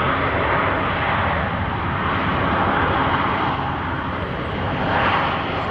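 Airliner engine noise at an airport, a steady rushing sound that holds through and swells slightly near the end.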